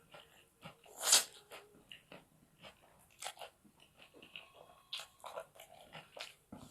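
Close-miked eating sounds: a run of crunchy bites and chewing, the loudest bite about a second in, then quicker small crackles and smacks.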